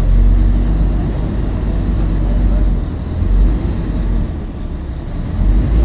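Scania L113CRL bus running on the road: a steady, loud low rumble of its diesel engine and road noise, swelling briefly a few times.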